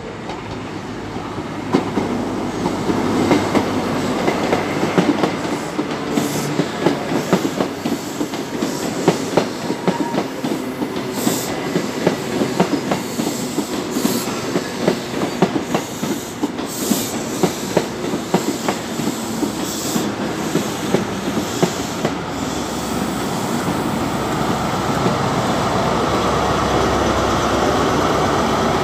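CrossCountry High Speed Train (InterCity 125) running along the platform, its wheels clacking over rail joints and points. The rear class 43 diesel power car's engine grows louder near the end as it comes alongside.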